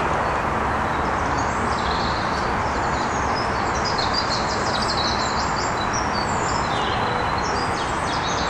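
Small birds chirping and twittering in quick runs, over a steady rushing background noise.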